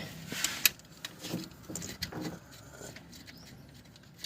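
A few light clicks and knocks from hand tools being worked in an engine bay: one sharp click followed by softer knocks, with quiet in between.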